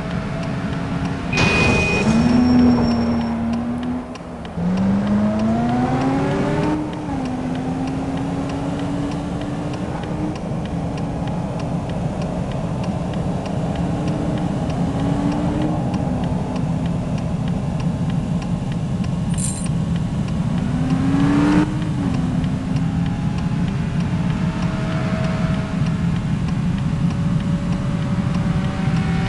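Road vehicle's engine running along with steady road rumble. Its pitch climbs as it speeds up and drops back at gear changes, most clearly about 5 and 21 seconds in.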